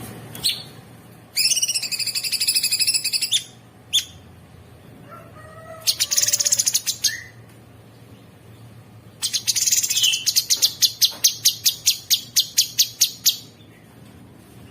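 Cucak sungkok singing in harsh, rapid phrases: a wavering high trill, a short fast burst, then a long run of sharp repeated notes at about four or five a second, with short pauses between the phrases.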